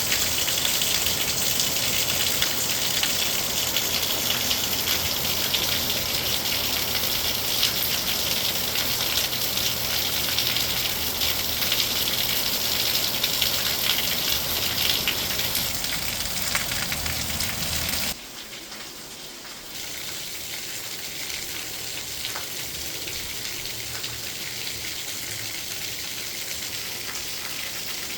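Heavy rain pouring down in a steady, dense hiss. About eighteen seconds in it drops suddenly to a quieter, thinner rain hiss.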